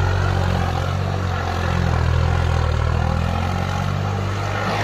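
Tractor diesel engine running steadily with a deep, even drone.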